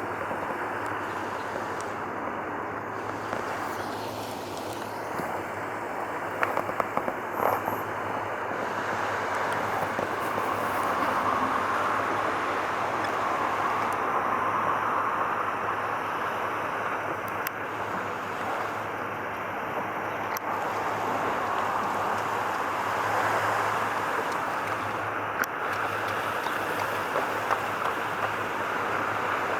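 Steady rushing outdoor background noise with a constant low hum underneath, and a few faint clicks about a quarter of the way in.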